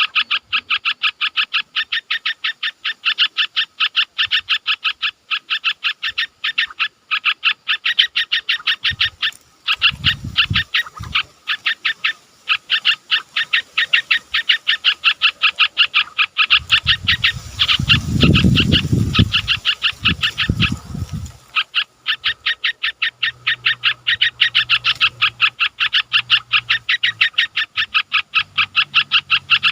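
A steady, fast rhythmic animal call, about four to five even pulses a second, repeating without a break. Low dull thumps come about ten seconds in and again for several seconds past the middle, and a low hum joins in the last few seconds.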